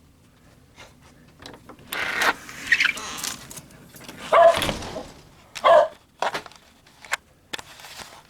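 A dog giving several short barks, with small clicks and jingles between them.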